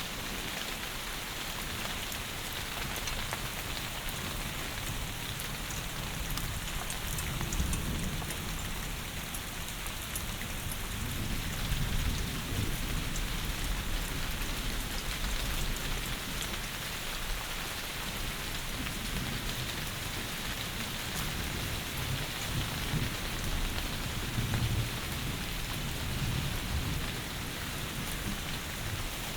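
Heavy rain falling steadily, with low rolls of thunder rumbling underneath, swelling about a quarter of the way in and again in the last third.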